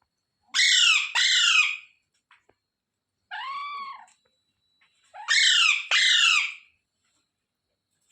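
Indian ringneck parakeet squawking: two loud, harsh double calls with a softer, arching call between them.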